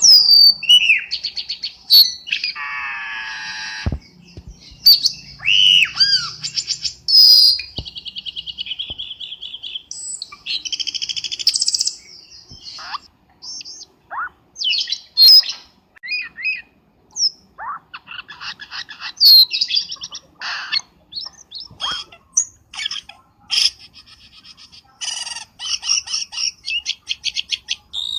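Cucak keling bird calling as a trapping lure: a varied, almost unbroken run of whistled glides, rapid chattering trills and harsh squawks, separated by short pauses.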